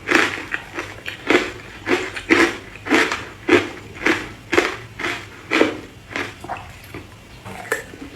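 Ice being crunched and chewed between the teeth, about two crunches a second, growing quieter near the end.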